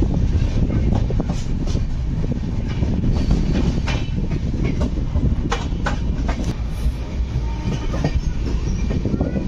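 Moving express train's sleeper coach, heard from its open doorway: a steady loud rumble of wheels on the rails, with a scattering of sharp clicks as the wheels pass over rail joints.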